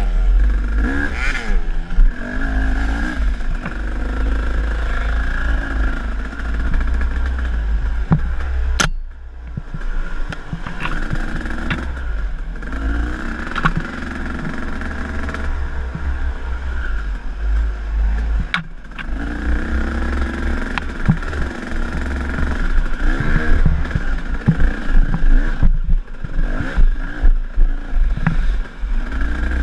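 KTM enduro dirt bike engine revving up and down as it rides a trail, with wind rumble on the mic and scattered knocks and clatter from the bumps. The engine eases off briefly twice, about nine and nineteen seconds in.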